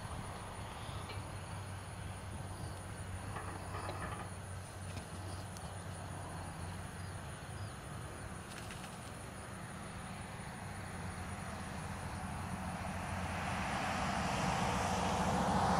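A steady low hum under outdoor ambience, with the sound of a vehicle growing louder over the last few seconds as it approaches.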